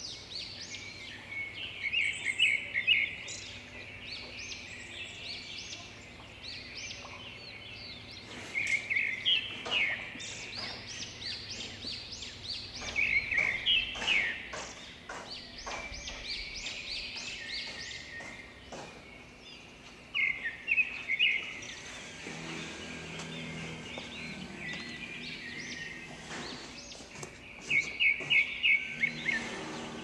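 A bird calling in short bursts of rapid, repeated chirping notes, five bursts several seconds apart, with softer chirps in between.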